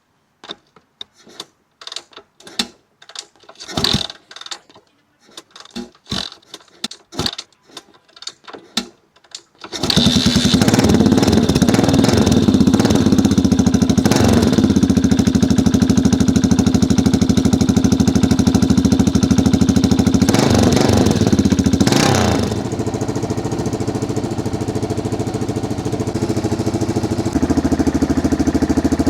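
1985 Yamaha XT600's single-cylinder four-stroke engine being kick-started: a run of knocks and clicks from the kickstarter strokes, then the engine catches about ten seconds in and runs fast and steady on choke. It picks up briefly twice, then drops to a lower, steady idle for the last several seconds.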